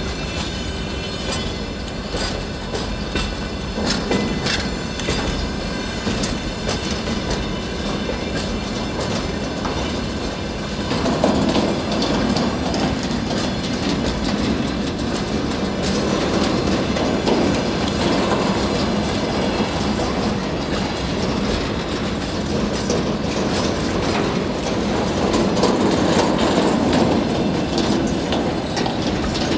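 Freight train wagons rolling past close by, wheels clicking over the rail joints. A high squeal rings through about the first ten seconds. From about eleven seconds in, the rumble grows louder and fuller.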